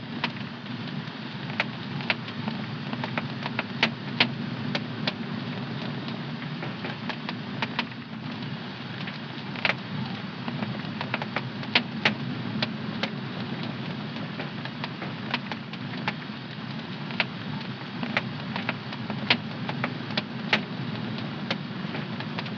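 Wood fire in a home fireplace crackling: sharp pops at irregular intervals over a steady low rumble of the burning fire.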